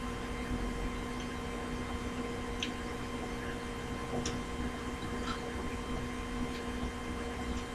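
A few faint, sharp clicks and taps from small parts being handled, over a steady electrical hum.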